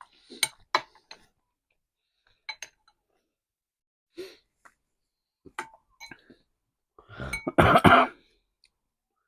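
A few scattered small clicks and chinks while eating, then a loud cough about half a second long near the end.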